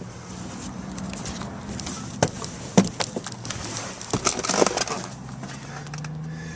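Several sharp clicks and knocks inside a pickup truck's cab, the sound of hands working the dash controls and handling the camera, over a steady low hum.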